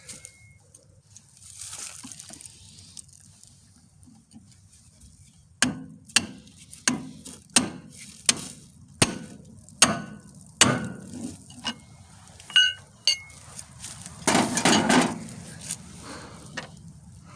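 A run of about ten sharp metallic knocks, roughly two a second, from tools striking the tractor's steel steering linkage. A short, louder scraping noise follows near the end.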